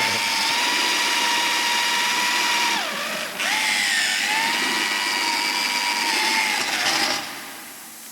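A handheld power tool runs at high speed with a steady whine. About three seconds in it slows briefly, as if under load, then spins back up, and it stops shortly after seven seconds in.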